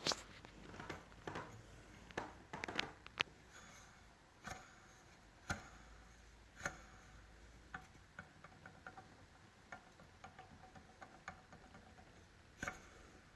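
Scattered light clicks and knocks of a used turbocharger being handled by hand, its wheel turned and shaft checked for play.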